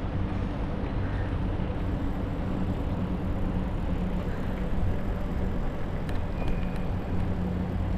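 Steady low hum of road traffic with outdoor noise, a few faint light clicks about six seconds in.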